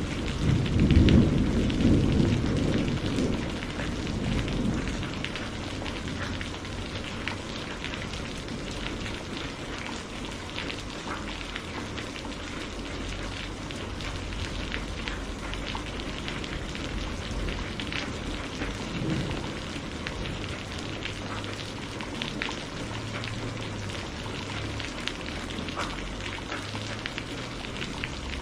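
Steady rain falling with many distinct drop ticks, and a rumble of thunder in the first few seconds that swells about a second in and fades away.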